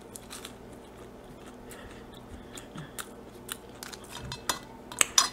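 Close-up eating sounds: a person chewing a mouthful of food, with scattered small wet mouth clicks and a few sharper clicks near the end.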